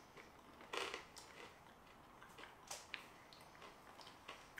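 Near silence with a few faint, sparse crunching clicks of someone chewing a hard, rocky-textured chocolate sweet. The clearest click comes about three quarters of a second in.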